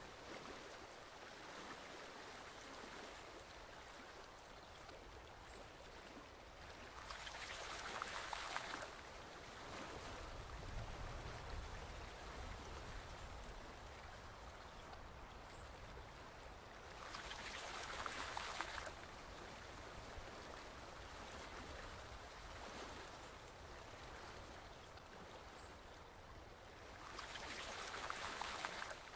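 Forest stream flowing steadily, its rush swelling louder for a couple of seconds about every ten seconds.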